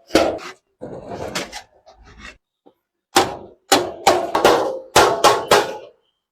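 Hammer blows on thin sheet iron, each a sharp ringing clang: one near the start, then a run of about seven strikes, roughly two a second, in the second half.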